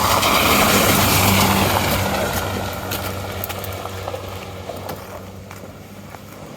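A vehicle climbing an icy hill with its engine working hard, loudest at first and then fading steadily as it pulls away up the road.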